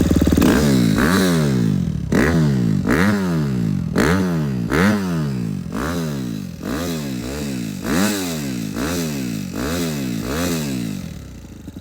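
Suzuki RM-Z250 four-stroke single-cylinder motocross engine ridden hard. Its pitch climbs and falls back again and again, about once a second, as the throttle is worked.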